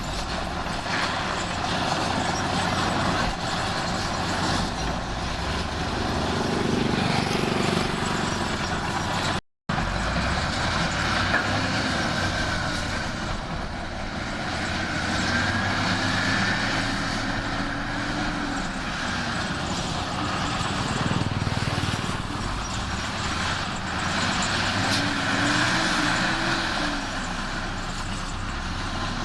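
Heavy diesel earth-moving machinery running steadily under load, its pitch rising and falling a little. The sound cuts out for a moment about a third of the way through.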